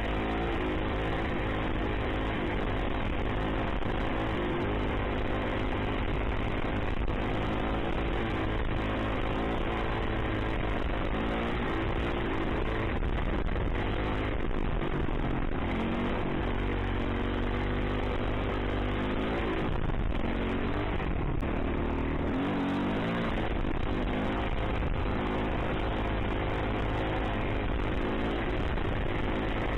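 Yamaha YZ450F single-cylinder four-stroke dirt bike engine under way, revving up and dropping back again and again as it is ridden through the gears.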